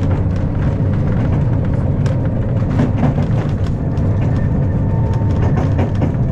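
Historic tram running along its rails: a steady low rumble with frequent small clicks and rattles.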